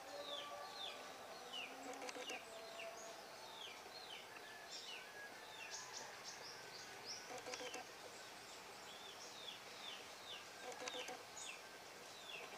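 Birds chirping: many quick, high chirps, each sliding downward in pitch, several a second, faint over a light background of outdoor noise.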